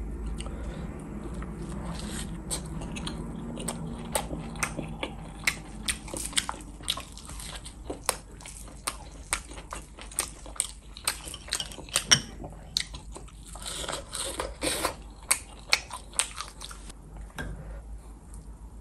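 Close-up chewing of crisp deep-fried puri bread and samosa, with many sharp crunches and mouth clicks, thickest in the middle stretch.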